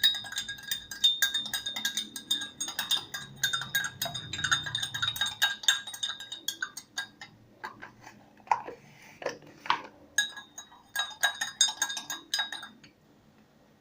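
A small spoon stirring borax into hot water in a container, clinking rapidly against the sides with a light ringing. The clinks thin out about seven seconds in and stop near the end.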